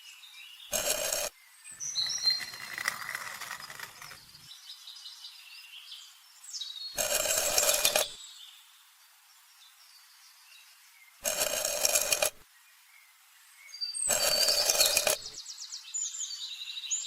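Birds chirping in the background, interrupted four times by a short burst of noise about a second long.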